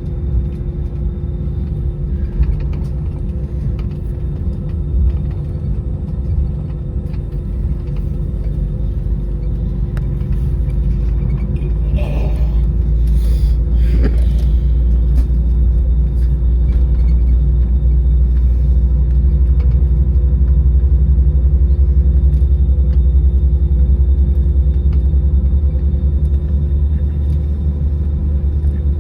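Airbus A319 cabin noise while taxiing: a steady low rumble of the jet engines and rolling gear, with a faint steady engine hum over it, growing somewhat louder about halfway through.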